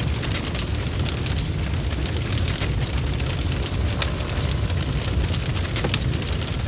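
Wood fire crackling, with many sharp irregular crackles over a steady low rumble of flames.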